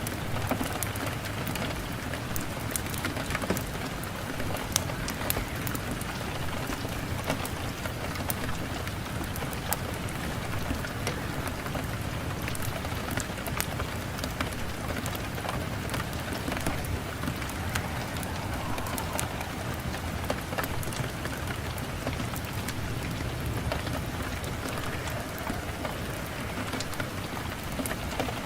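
Steady rain falling and pattering on a surface: an even hiss dotted with many small sharp ticks of individual drops.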